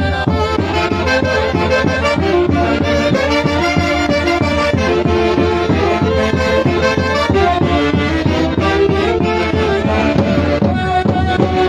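Traditional Peruvian orchestra music: reed and brass instruments playing a melody together over a steady beat.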